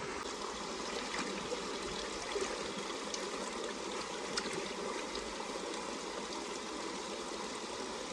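A steady rushing noise like running water, with a few faint small ticks.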